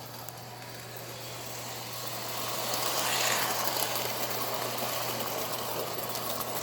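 Electric toy train running along its track: a steady motor hum with wheel and track rumble that grows louder about three seconds in as it comes closer.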